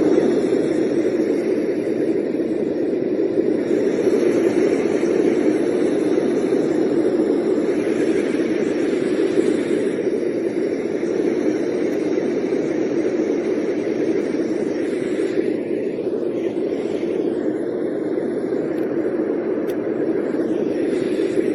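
Dreamegg portable noise machine playing one of its soothing sounds: a steady, low, rushing noise like a fan or an aircraft cabin drone, even and unbroken throughout.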